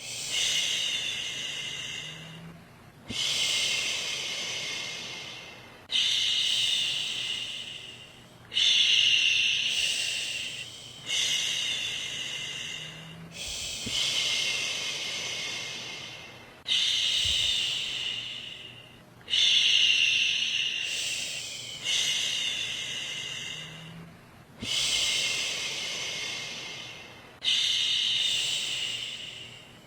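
A woman's voice shushing, 'shhh', in long repeated strokes about every three seconds. Each shush starts strongly and fades before the next begins.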